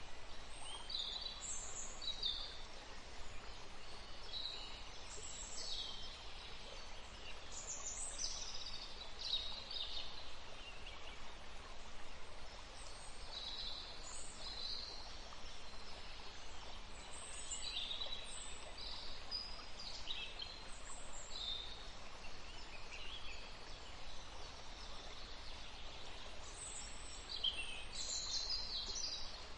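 Several songbirds chirping and singing, short high calls and trills that overlap irregularly, over a faint steady background hiss.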